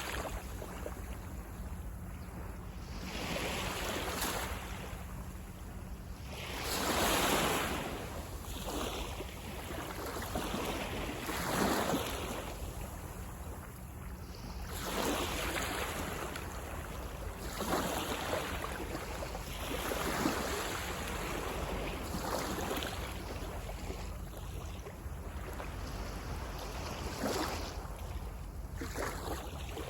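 Sea waves washing onto the beach, the surf swelling and fading every few seconds over a steady low rumble, the largest swells about a quarter, two fifths and two thirds of the way through.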